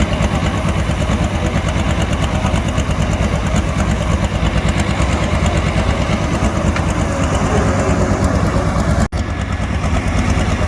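Loud, steady running of a pulling tractor's engine, with a fast even firing pulse in the low end. The sound drops out for an instant about nine seconds in.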